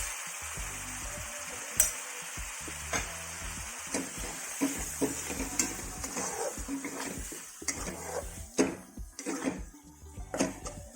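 Curry masala sizzling in oil in a pan just after a splash of water, with a metal spoon scraping and knocking against the pan as it is stirred. The sizzle dies down in the second half while the knocks of the spoon become more frequent.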